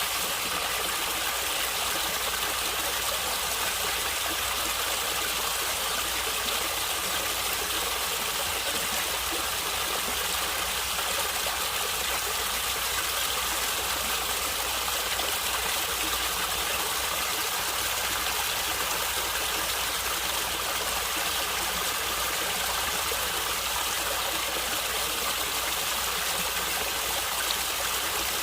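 Natural stream water flowing and gurgling with a steady, unchanging rush.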